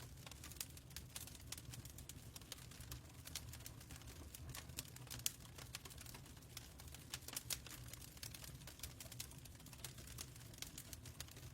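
Fireplace crackling: many small irregular pops and crackles over a steady low rumble.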